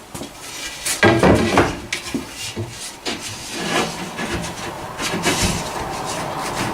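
Irregular wooden knocks and scraping as timber pieces with nails in them are test-fitted together, the heaviest knocks about a second in, then lighter knocks and rubbing.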